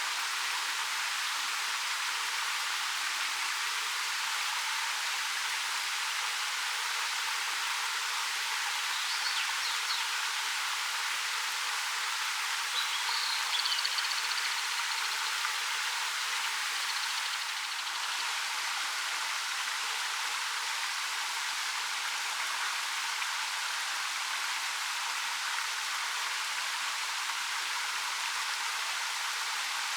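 Waterfall of about 13 m pouring over rock: a steady, even rush of falling water. A few faint high chirps, typical of small birds, come through about a third of the way in and again a little later.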